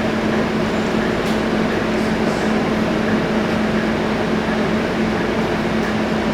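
Cabin noise of a Scania K230UB city bus under way: a steady engine and drivetrain drone with a constant low hum, holding an even level with no rev changes.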